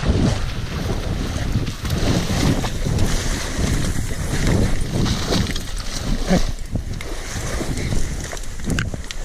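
Strong wind buffeting the microphone: a low rumbling rush that swells and eases in gusts.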